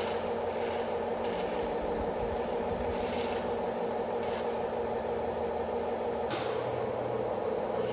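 Small electric motor and plastic gearbox of a radio-controlled model truck running steadily with a whirring hum. A short click about six seconds in is followed by a lower hum joining.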